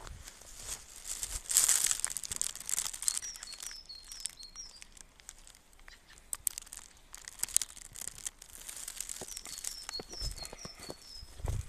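Footsteps in snow, a run of crunching steps, with a small songbird singing a short phrase of quick high chirps twice, about three seconds in and again near the end.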